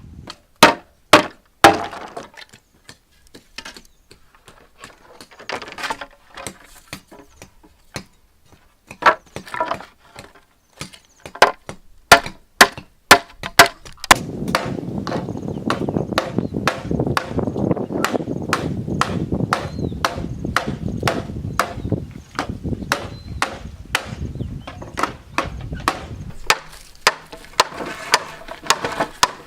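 Bamboo being chopped with a blade: sharp, separate wooden strikes, some in quick runs of two or three. About halfway through a dense, rough rasping noise sets in under the strikes for roughly twelve seconds, then eases.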